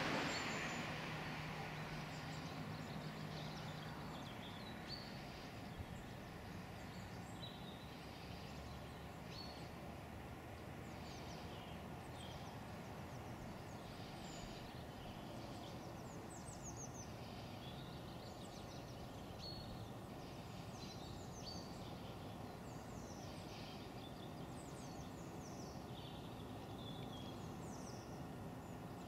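Small birds chirping and singing, many short calls, over a steady low background rumble. A louder noise dies away over the first two seconds.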